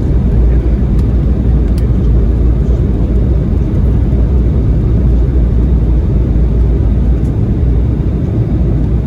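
Steady low rumble of airflow and engines heard inside an Embraer 195 airliner's cabin on its landing approach, with a few faint ticks.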